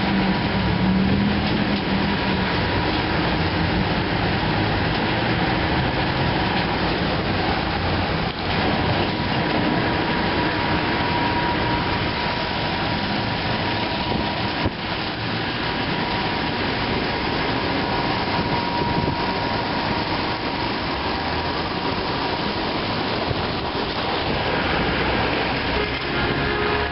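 Ceccato Ginga WD 240 rollover car wash machine running: a steady rushing noise of the wash machinery, with a faint steady whine.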